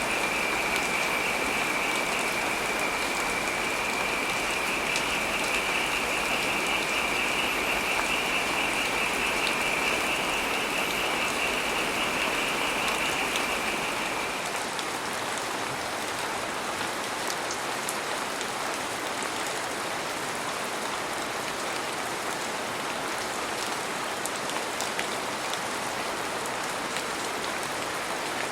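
Heavy rain falling, an even hiss. A steady high-pitched buzz sits over it and stops about halfway through, after which the rain sounds a little quieter and thinner.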